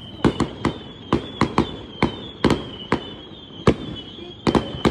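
Fireworks going off: a rapid, irregular series of about a dozen sharp bangs, over a thin high whistling tone that keeps dipping slightly in pitch.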